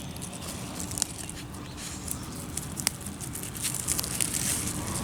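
Rustling and crackling of weeds, likely bull thistle seedlings, being pulled by hand from garden soil, with many small scattered clicks and snaps.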